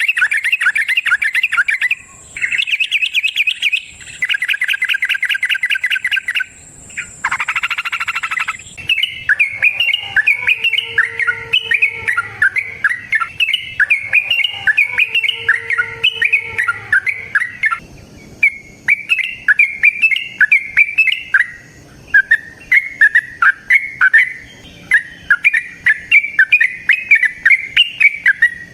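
Yellow-vented bulbul (trucukan) singing its long, rapid chattering song in quick runs of notes, with short breaks between phrases. A steady high-pitched tone sits underneath for about the first third.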